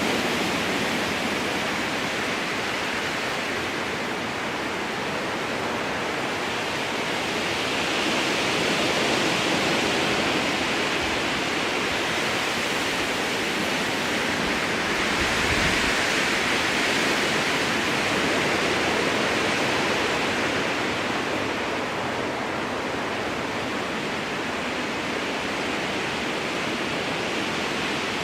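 Strong wind rushing through a spruce forest, a steady rush of noise that swells in gusts and eases again.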